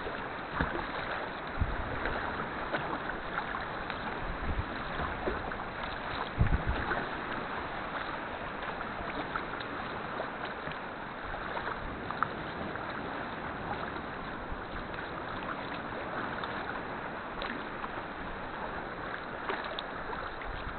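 Sea kayak being paddled: steady splashing and lapping of water around the boat, with scattered small clicks and a few low knocks, the loudest about six and a half seconds in.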